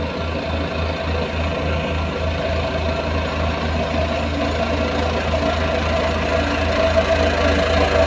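Heavy diesel engine of road-construction machinery running, with a low rhythmic throb that gradually speeds up.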